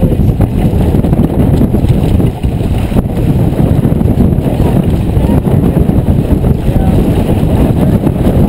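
Wind buffeting the microphone aboard a sailboat under way: a loud, steady low rumble with no let-up.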